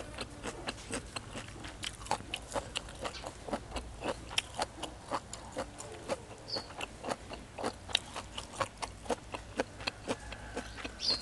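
Close-miked chewing of crunchy beef omasum tripe salad: a quick, irregular run of wet, crisp crunches, several a second. The tripe is a little overcooked but still crunchy, in the eater's view.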